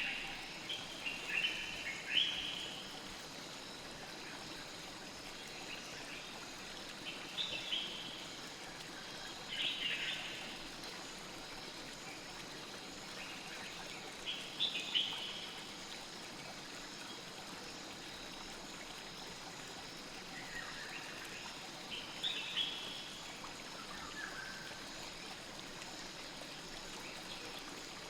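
Steady rush of a flowing stream, with short bursts of bird chirps every few seconds: about eight clusters.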